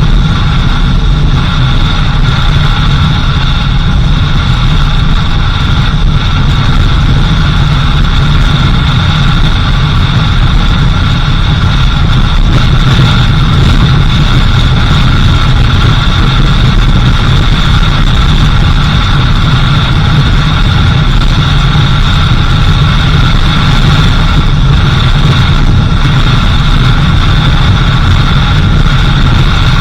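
A vehicle's engine running steadily in a continuous low rumble, with faint steady high-pitched tones above it.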